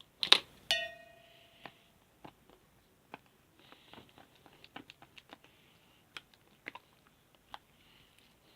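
Slime being handled and pressed, making scattered small clicks and pops. Near the start there is a sharp click, then a short ringing tone that fades within about half a second.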